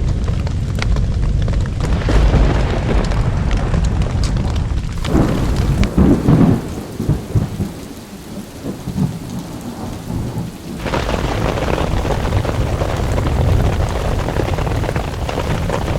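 Thunderstorm: heavy rain falling with deep rolling thunder rumbles, the sound changing abruptly about five and eleven seconds in.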